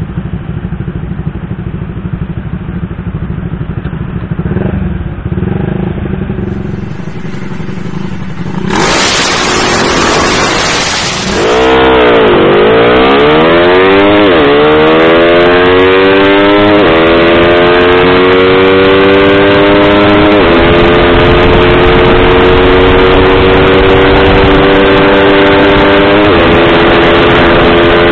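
Motorcycle engine running low and steady at a standstill, then a loud rushing noise for a few seconds as it pulls away. It then accelerates hard through the gears, the engine note climbing and dropping back at each of four upshifts.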